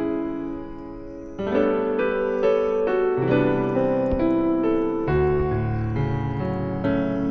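Background piano music: gentle chords and single notes, with new notes struck about every half second.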